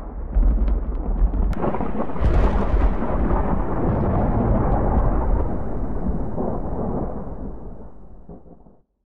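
Thunder rumbling in a long roll, with a sharp crack about a second and a half in and a swell soon after. It fades away over the last two seconds.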